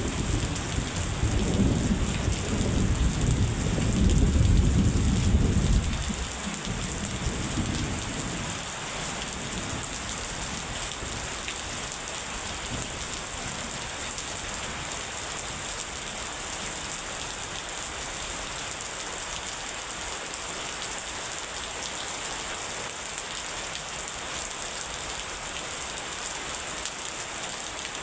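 Steady heavy rain falling, with a roll of thunder rumbling in the first few seconds, loudest around five seconds in, then fading away after about six to eight seconds to leave only the rain.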